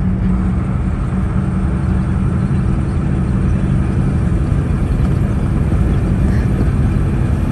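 Semi-truck engine and road noise while driving: a steady low drone with a constant engine hum.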